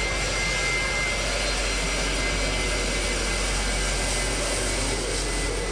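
Jet engine of a jet-powered school bus running at high power: a steady, loud rushing roar.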